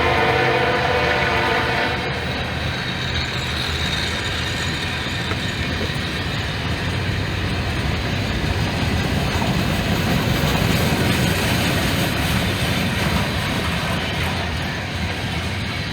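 A Norfolk Southern freight train's air horn sounds a chord of several tones and cuts off about two seconds in. The train's steady rolling rumble follows as it passes.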